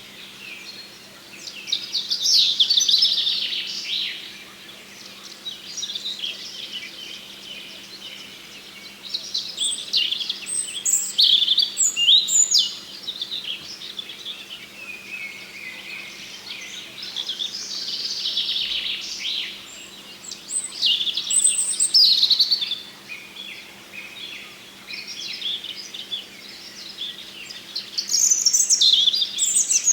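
Small songbirds chirping and calling in repeated bursts every few seconds, over a faint steady low hum.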